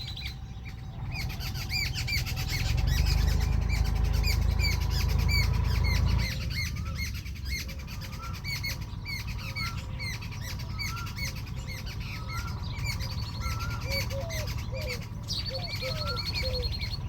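Many small birds chirping rapidly and continuously, short repeated chirps at several pitches overlapping. A low rumble sits under them for a few seconds early on.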